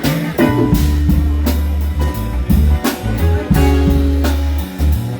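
Live band playing an instrumental passage: electric guitar over a moving bass line and a drum kit keeping a steady beat of about two hits a second.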